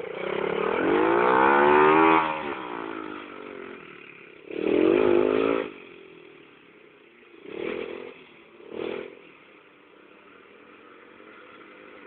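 Mini motorbike's small engine revving in bursts: a long rise and fall in pitch about a second in, a shorter loud burst around four and a half seconds, then two brief blips near eight and nine seconds, with a quieter running sound between.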